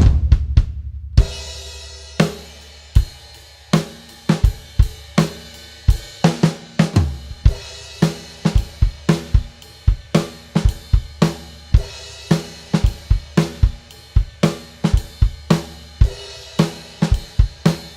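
Drum kit being played: a quick run of strikes ending on a cymbal crash about a second in, then a steady beat of kick drum, snare and cymbals at about three hits a second.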